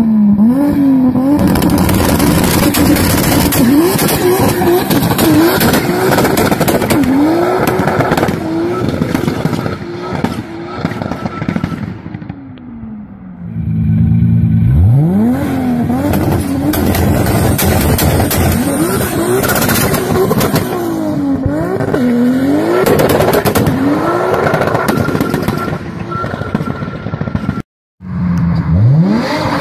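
Toyota Supra's twin-turbo 2JZ-GTE straight-six engine revving hard, its pitch climbing and falling back again and again, with rapid popping and crackling from the exhaust. It eases off about twelve seconds in, then revs up again, and the sound cuts out suddenly near the end before picking up once more.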